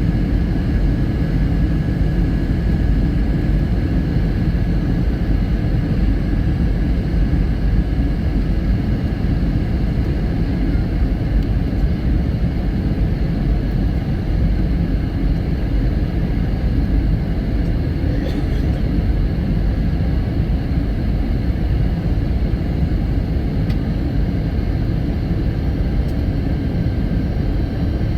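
Steady roar of an airliner cabin in flight, jet engine and airflow noise, heard on the approach to landing.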